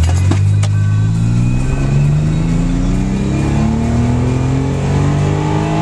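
Nissan 300ZX (Z32) V6 under hard acceleration from a standstill, heard from inside the cabin. The engine note climbs, drops as the automatic shifts up about two seconds in, then climbs again.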